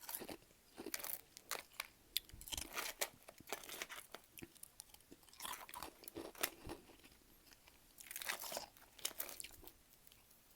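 Close-miked biting and chewing of freezer frost: crisp, crackly crunches that come in bunches several times, with sharp single cracks between them.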